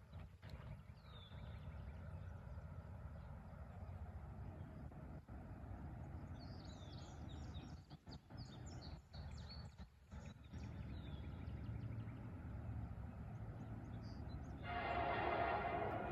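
Birds chirping, then about fifteen seconds in a CSX freight locomotive's air horn starts blowing a long chord as the approaching train sounds for the grade crossing, over a steady low rumble.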